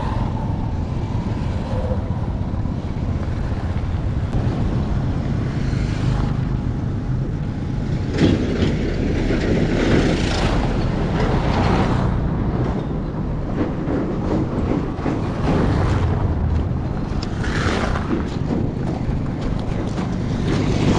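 Road traffic noise: a steady low rumble of vehicle engines and tyres, swelling louder about eight seconds in and again near eighteen seconds.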